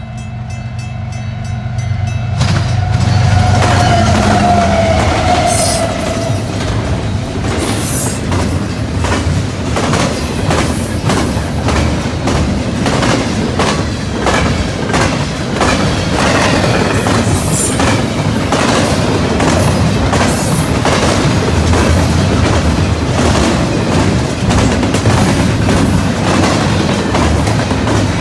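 CN intermodal freight train passing close by, led by GE GEVO diesel locomotives. The locomotives' low engine rumble builds, and about two and a half seconds in the train arrives at full loudness. Its wheels then clatter and click steadily over the rail joints as the cars roll past.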